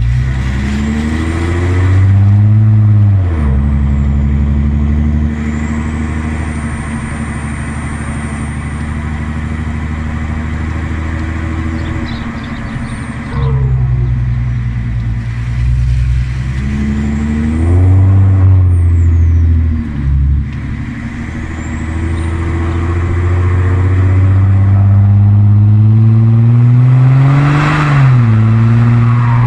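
Audi A4 B7 3.0 TDI V6 diesel engine running through a straight-piped exhaust. Its pitch rises and falls a few times as it is revved or accelerated, with a long steady climb near the end that drops off suddenly.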